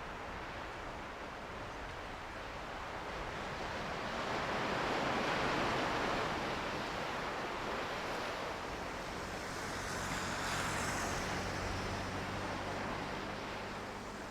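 Ocean surf: waves breaking and washing in a steady roar that swells about a third of the way in and again near the end, with a faint low hum under it in the second half.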